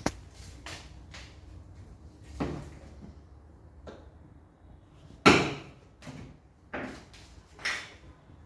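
A series of separate knocks and clanks from work in a workshop, about six in all, the loudest about halfway through and two more near the end.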